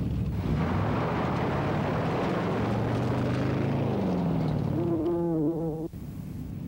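A motor vehicle engine running, its pitch sliding down and then up. Near the end a wavering high tone sounds over it, and then the sound cuts off abruptly to a quieter background.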